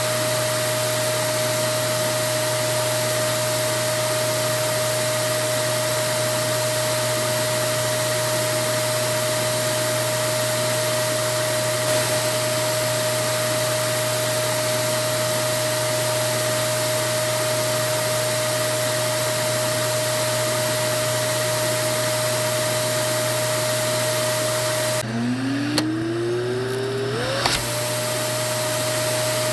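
Vacuum cleaner motor running steadily, a loud hiss with a steady whine. About 25 seconds in, the sound drops and the motor spins back up, its whine rising in pitch to full speed in about two seconds, with a couple of clicks along the way.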